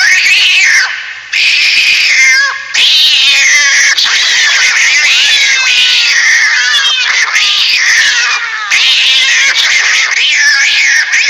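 Cat caterwauling: a run of loud, high, wavering yowls with pitch gliding up and down, broken by several abrupt cuts where clips are joined.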